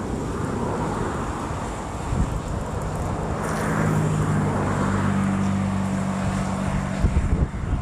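A motor's steady low hum, starting about two seconds in and fading out near the end, over wind noise on the microphone and the wash of waves.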